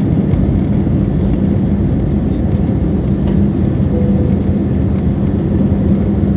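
Steady roar of an Airbus A320-family airliner's jet engines and rushing air heard inside the cabin during the climb after takeoff, with a steady low hum underneath.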